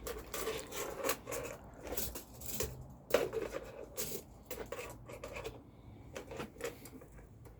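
A tape measure being pulled out and handled, making a run of short clicks and rustles that thin out after about five seconds.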